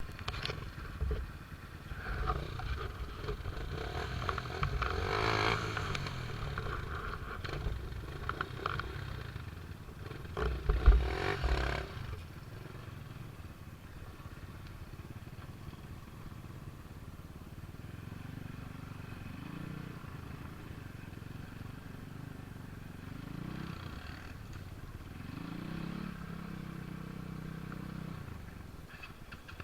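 A motor vehicle engine running, its pitch rising and falling in the second half. Clattering and knocks come through in the first twelve seconds, the loudest about eleven seconds in.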